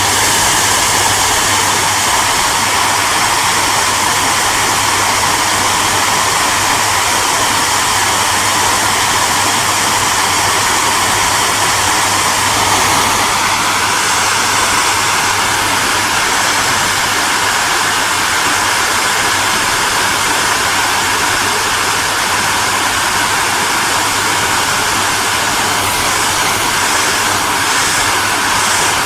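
Hair dryer running continuously: a loud, steady rush of blown air over a low motor hum. A faint tone within the noise rises slightly a little before halfway through.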